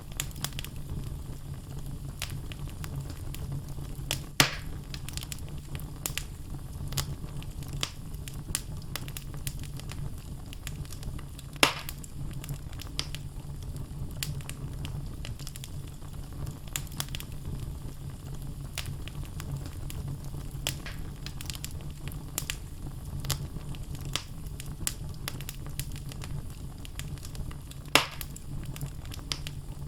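Wood logs burning in a fireplace: a steady low rumble of flames with frequent small crackles and three louder, sharper pops spread through.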